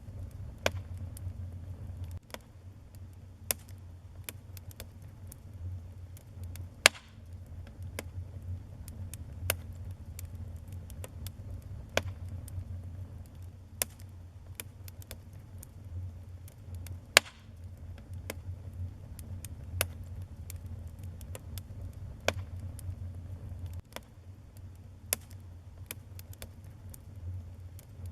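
Wood fire burning in a fireplace, crackling with irregular sharp pops over a steady low rumble. The loudest pops come about seven and seventeen seconds in.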